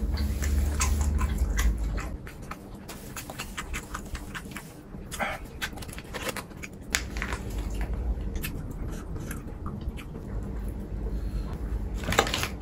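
Close-miked eating: a person biting and chewing food, with many short, irregular clicks and smacks.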